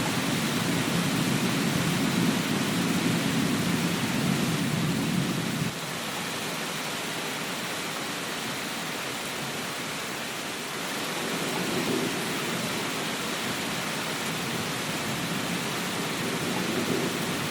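Steady rainfall with a low rumble of thunder that stops abruptly about six seconds in, then swells back faintly near the end.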